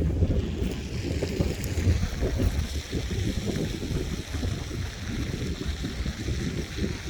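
Wind buffeting the microphone: a loud, gusty low rumble that rises and falls unevenly throughout.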